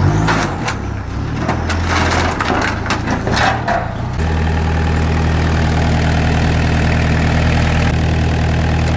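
MG ZR180's 1.8 K-series four-cylinder engine being jump-started after ten years standing: about four seconds of rattly, clicking cranking, then it catches and settles into a steady idle.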